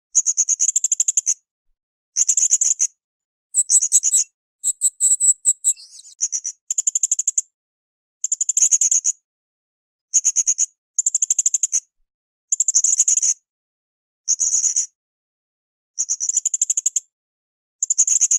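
Blue-crowned hanging parrot (srindit) calling: very high, rapid rasping trills about a second long, repeated every two seconds or so, with a different, more whistled phrase about four to six seconds in.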